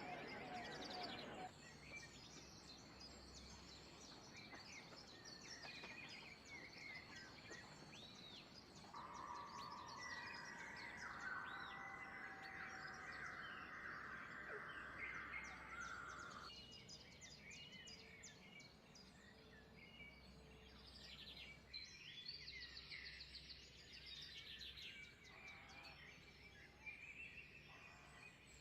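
Several wild birds chirping and calling faintly, many short high notes overlapping.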